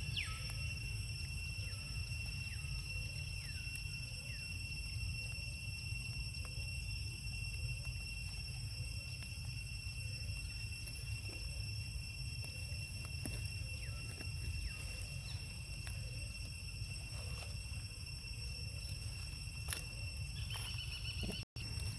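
Insects trilling steadily in several high tones over a low rumble, with a few short falling chirps now and then and a sudden brief cut near the end.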